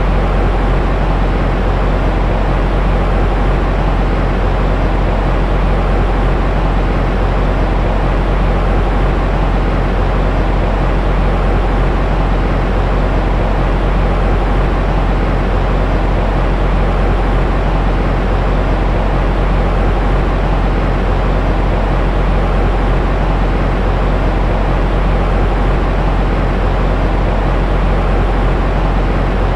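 Continuous white noise for baby sleep: an even, unchanging rushing sound, heaviest in the deep bass and thinning out toward the treble.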